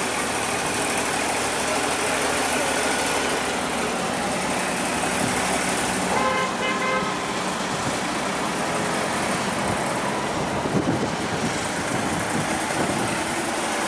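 Engine running steadily, with a horn sounding briefly about six seconds in and a few sharp knocks later on.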